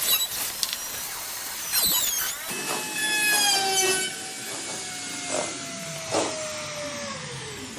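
Electric power tool motor whining steadily, its pitch sliding slowly downward for several seconds from about two and a half seconds in, with a few short knocks over it. Just before that come short squeaky sounds.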